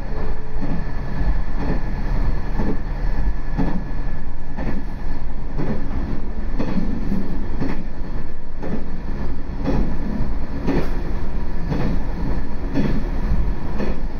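Ise Railway diesel railcar running along the line, heard from inside the car: a steady low engine drone with the wheels knocking over rail joints about once a second.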